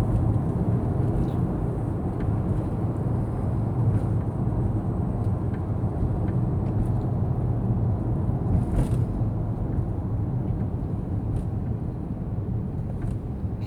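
Steady low rumble of a truck running, heard from inside the cab, with a few faint clicks.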